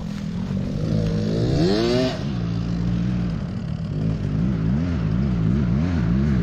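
Yamaha YZ450F single-cylinder four-stroke motocross bike accelerating, its engine pitch climbing about a second in and dropping sharply near two seconds. Later the revs rise and fall several times as the throttle is worked.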